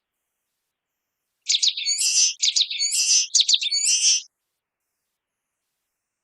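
Common waxbill singing: three quick phrases in about three seconds, each a few sharp high notes followed by a harsh, buzzy note, starting about a second and a half in.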